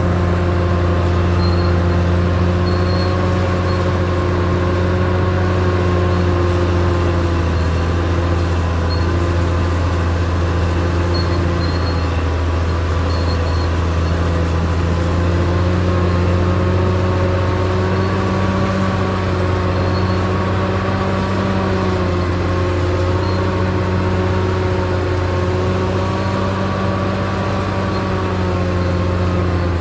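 Caterpillar D6R XL bulldozer's diesel engine running steadily under load, its deep drone drifting slightly up and down in pitch.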